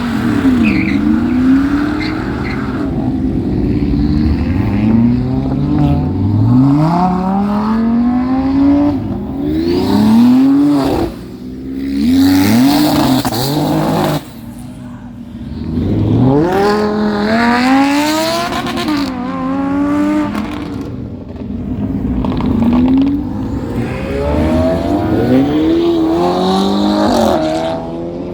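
Car engine revved hard again and again, its pitch climbing and falling back with each rev. The sound drops away suddenly twice near the middle.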